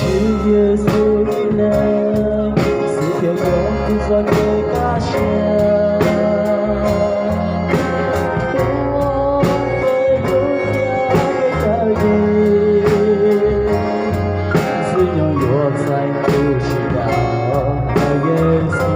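Hmong gospel song: a voice singing over guitar and a steady drum beat.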